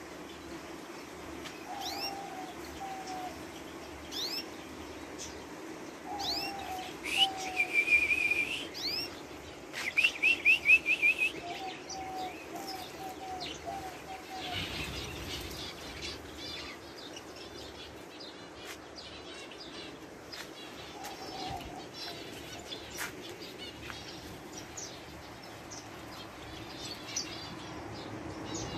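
Aviary birds calling and chirping over a steady low hum: many short falling chirps, with low repeated notes now and then, a held trill about seven seconds in and a loud quick run of notes about ten seconds in.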